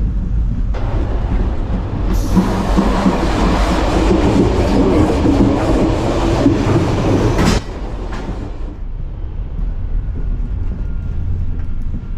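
Running noise of a moving passenger train heard from inside, a steady rumble with wheel clatter on the rails. About two seconds in it turns much louder and hissier, the open track noise of the gangway between carriages, then cuts off abruptly after about five seconds as the gangway door shuts.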